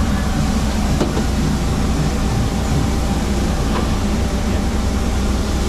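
Steady low mechanical drone with a rumbling hum, unchanging throughout, with a couple of faint ticks.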